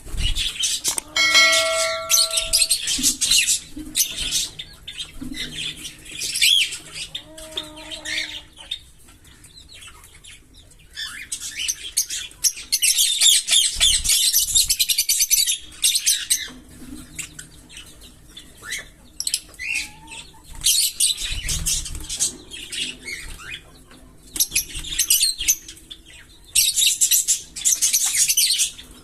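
A pair of green Fischer's lovebirds chattering in bouts of rapid, high-pitched chirps, broken by a few short pauses. A short ringing tone sounds about a second in.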